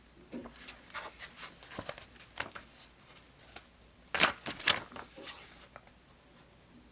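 Paper handling at a desk: a string of short rustles and light taps, the loudest brief rustles coming about four seconds in.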